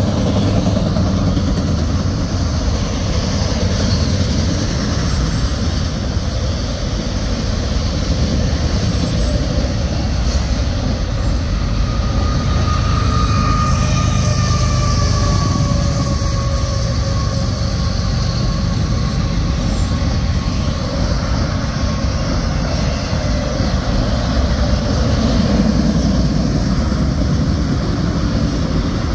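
Railroad train running on steel rails, a steady rumble throughout, with a faint wheel squeal about halfway through.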